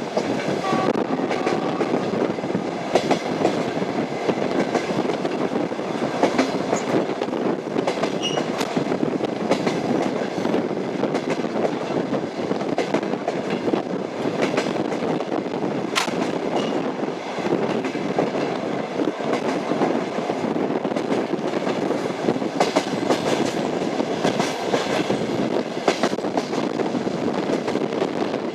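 Train running on rails: a steady rumble with the wheels clacking over rail joints and occasional sharp clicks, the sharpest about halfway through.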